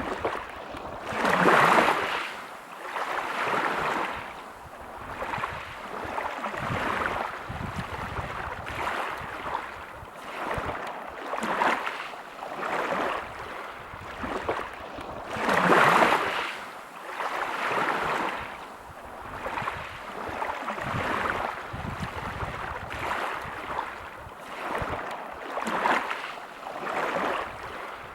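Small waves breaking and washing over a pebble beach, the surf swelling and fading every two seconds or so. Two larger waves break, about a second and a half in and around sixteen seconds in.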